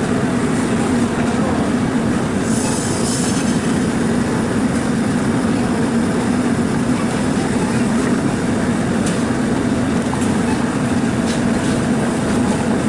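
A machine running steadily with a low hum and noisy rumble, a short hiss about two and a half seconds in, and a few faint clicks near the end.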